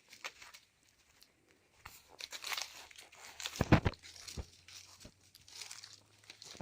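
Dry leaf litter crackling and crunching in irregular bursts, with a few sharp knocks, the loudest a little after three and a half seconds in.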